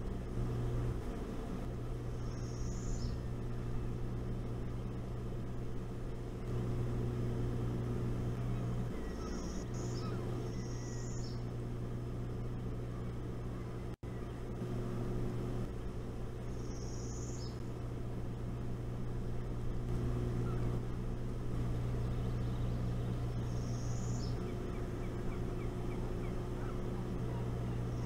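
A steady low hum runs throughout. Over it, a short, high-pitched bird call sounds five times at uneven gaps of a few seconds, each call dropping at its end.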